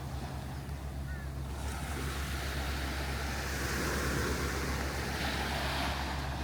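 Surf washing onto a beach, the hiss swelling about two seconds in, with a steady wind rumble on the microphone.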